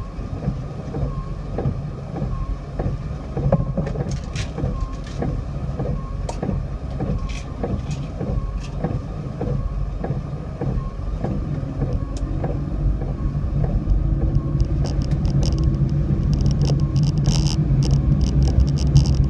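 A car running, with a steady low rumble of engine and road noise, a faint regularly repeating tone, and scattered sharp clicks and taps that grow more frequent near the end.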